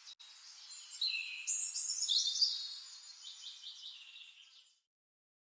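Several birds singing, a mix of quick chirps and short sweeping notes, busiest and loudest in the middle and fading out near the end.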